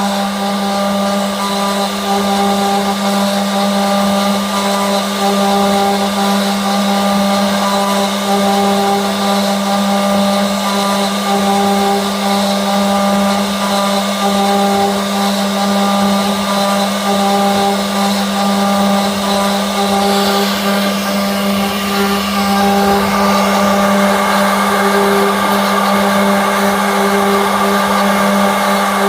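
Sawmill woodworking machine running with a steady motor hum. About two-thirds of the way through it grows slightly louder and rougher.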